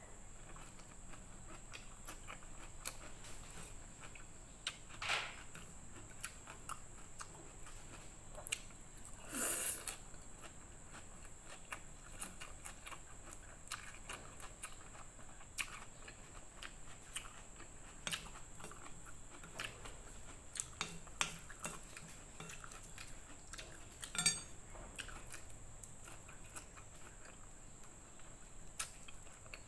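Close-miked chewing and slurping of fried noodles with bean sprouts: wet mouth clicks all the way through, and a few louder slurps, the loudest about nine and a half seconds in.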